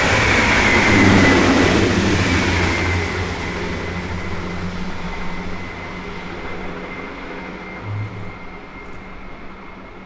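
DB Regio double-deck regional train running past and pulling away: rushing rail noise with a steady high whine that dips slightly in pitch at the start, fading steadily as the train recedes. There is a short low bump about eight seconds in.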